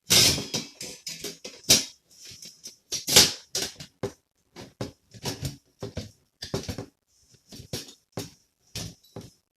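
Thin metal parts of a folding fire pit clattering and clinking irregularly as they are handled, with sharp knocks and brief jingles.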